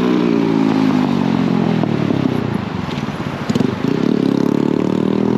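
Motorcycle engine running under way, with the engine note easing off and breaking up about halfway through, then picking up again.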